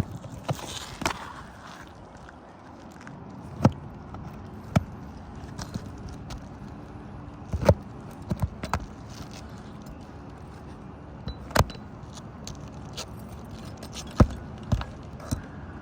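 Irregular sharp knocks and taps of roofing tools working out old nails from under a lifted asphalt shingle, about a dozen, some in quick pairs or threes, with light scraping between them.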